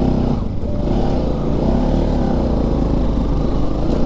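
Motorcycle engine running steadily while the bike is ridden slowly over a rocky dirt track.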